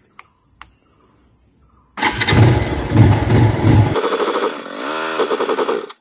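Bajaj Pulsar 220's single-cylinder engine being cranked to start, with its fuel tank run completely dry. After two faint clicks, the loud cranking cuts in suddenly about two seconds in and goes on as a rapid pulsing, then a pitched sound that shifts up and down.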